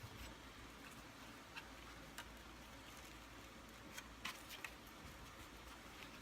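Near silence broken by a few faint, scattered clicks and taps: plastic vacuum-cleaner handle parts being handled during disassembly.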